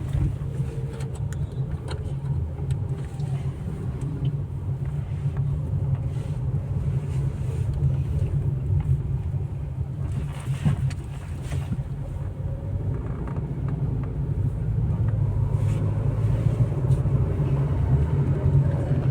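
A car driving along a road: a steady low rumble of engine and road noise, growing a little louder near the end.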